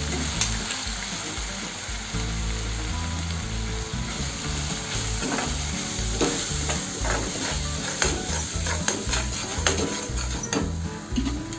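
Onion-tomato masala frying with a steady sizzle in a non-stick kadai, the oil already separated and dry spice powders just added. A metal spatula stirs through it, making frequent short scrapes and taps on the pan, most often in the second half.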